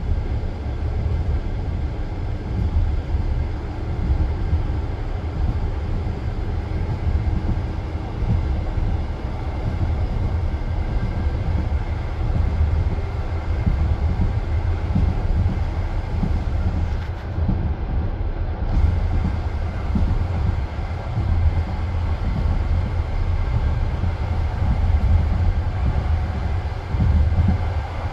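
Passenger train carriage running along the track between stations, heard from inside at the window: a steady low rumble of wheels on the rails with frequent irregular knocks.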